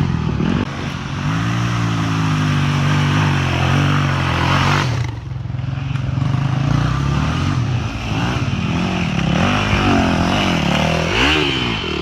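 Off-road vehicle engine revving up and down repeatedly, its pitch rising and falling several times, with a brief drop in level about five seconds in.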